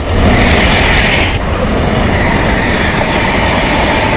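High-speed train running on the rails, a loud steady rushing noise that starts suddenly. A higher hiss fades out about a second and a half in.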